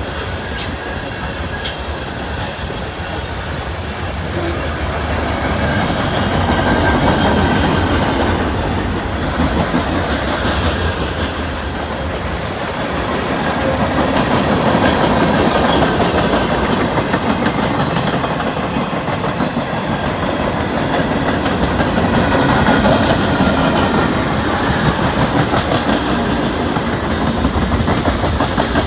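CN freight train's cars rolling past, wheels clacking over the rail joints in a steady stream, the loudness swelling and easing every several seconds. Faint wheel squeal rides over it.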